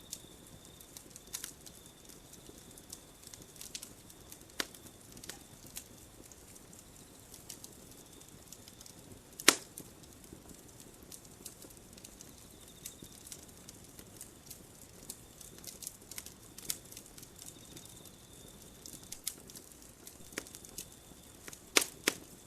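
Campfire burning, wood crackling with irregular snaps and pops over a low hiss. One much louder pop comes about halfway through and a quick cluster near the end. A faint high-pitched trill comes and goes in the background.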